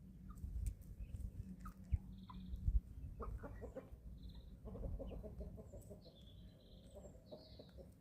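Young chickens clucking softly in short runs while feeding, with scattered high chirps and light taps over a steady low rumble.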